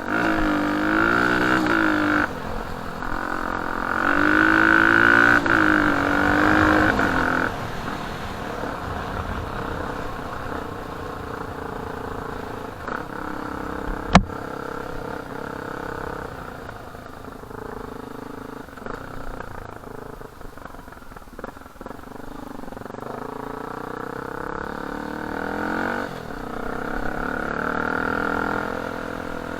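Off-road dirt bike engine running while riding, its pitch rising and falling with the throttle and louder through the first seven seconds, then pulling more steadily. A single sharp knock about halfway through.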